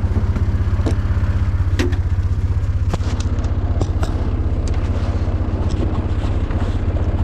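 An engine idling steadily close by, with scattered light clicks and taps of metal and plastic parts being handled.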